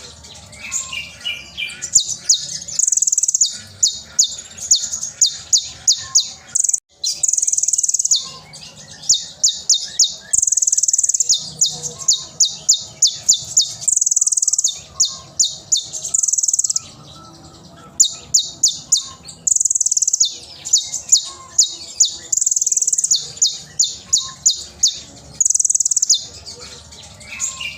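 Van Hasselt's sunbird (kolibri ninja, 'konin') singing loudly: rapid volleys of sharp, high chips, about ten a second, alternating with short buzzy trills, phrase after phrase with brief pauses.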